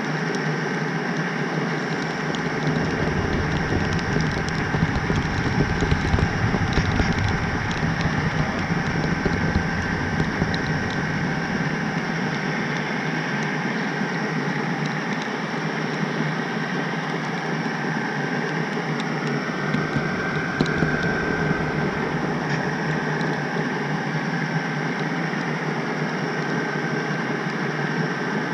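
HO scale model train rolling along its track, heard from a small camera riding in the caboose: a steady rumble and hiss with a thin steady whine and scattered light clicks. The rumble is heavier for the first ten seconds or so.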